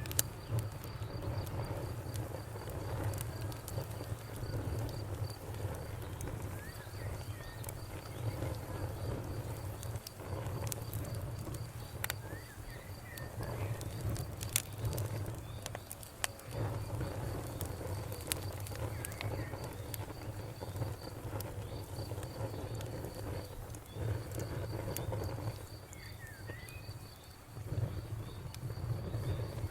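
Campfire burning, with a low steady rumble and frequent sharp crackles and pops. An insect chirps in an even, rapid pulse, and a few short bird chirps come in, one about halfway and one near the end.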